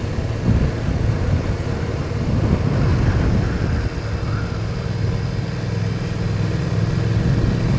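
BMW R1200 motorcycle's boxer-twin engine running under way, heard over steady wind noise; the engine note settles into a steady hum about halfway through.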